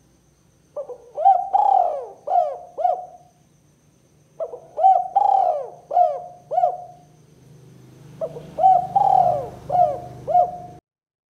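Spotted dove (tekukur) cooing: three phrases of several coos each, about four seconds apart. The recording cuts off abruptly near the end.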